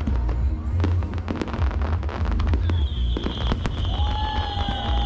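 Aerial fireworks going off in quick succession: sharp bangs and crackles over a continuous low rumble. A steady high whistle starts about halfway through.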